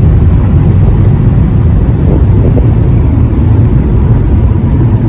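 A car driving, heard from inside the cabin: steady, loud, low road and engine rumble.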